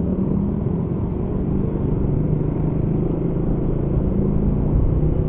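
Honda CB150R single-cylinder motorcycle engine running at a steady cruise, with road and wind rumble, heard from the rider's seat through a microphone under a cloth face mask.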